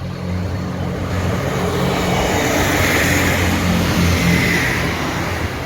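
A British Rail Class 158 diesel multiple unit passing over the level crossing: a steady low diesel engine drone under wheel-on-rail noise that swells to its loudest about three to four seconds in.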